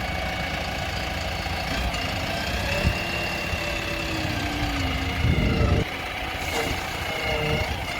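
Heavy machinery engine running steadily, with a brief louder surge about five seconds in.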